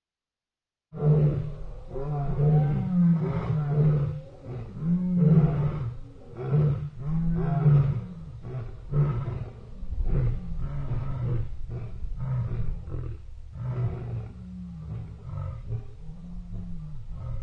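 African lion roaring: a bout of deep calls that starts suddenly about a second in, loudest early, then tails off into a run of shorter, quieter grunts.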